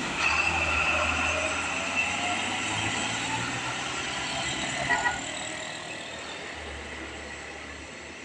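A heavy vehicle's engine and road noise, fading steadily as it moves away, with a couple of faint clicks in the middle.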